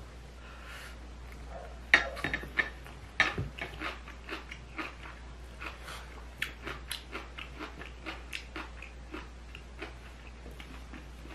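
Close-miked crunchy chewing of kimchi, fermented napa cabbage: a couple of sharp crunches about two seconds in, then a long run of wet, crisp crunching clicks that slowly fades. A steady low electrical hum lies underneath.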